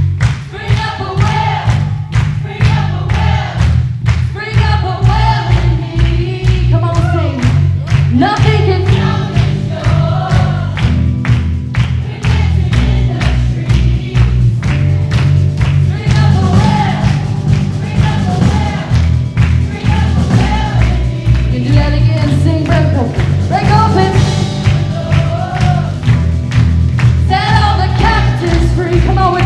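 Live church worship band playing contemporary Christian music: voices singing over heavy bass and a steady drum beat.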